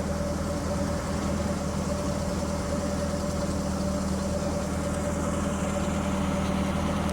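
Car engine running steadily, heard from inside the car, with a constant low hum.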